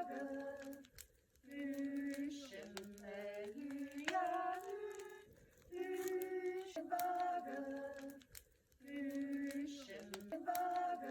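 A woman's voice singing a short melodic phrase over and over, with held notes and brief pauses between phrases, and scattered sharp clicks.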